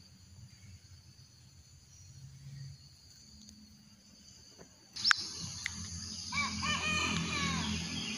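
Quiet room tone, then about five seconds in a click and outdoor sound: a steady high hiss with a series of short, bending bird calls near the end.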